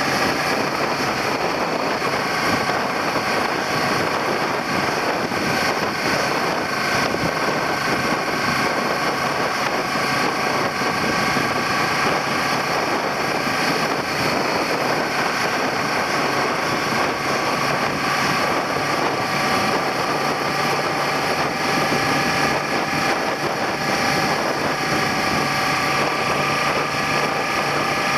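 Suzuki SV400's V-twin engine running at a steady cruise, heard from a handlebar-mounted camera, its tones drifting slightly up and down in pitch over a constant rush of noise.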